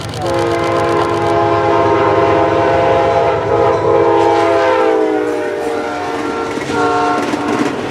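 Amtrak passenger train's locomotive horn sounding a long multi-tone blast that drops in pitch as the locomotive passes, followed by a shorter blast near the end, over the low rumble of the moving train.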